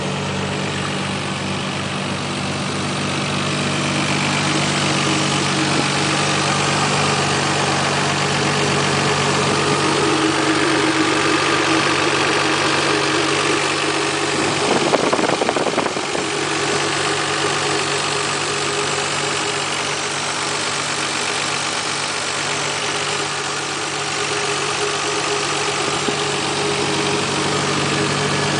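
Nissan Skyline GT-R's RB26DETT twin-cam inline-six, converted to a single Greddy T88-34D turbo, idling steadily. A brief burst of noise interrupts it about halfway through.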